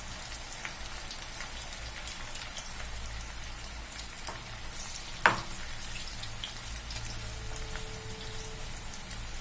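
Battered chicken pakodi pieces deep-frying in hot oil: a steady crackling sizzle, with one sharp click about five seconds in.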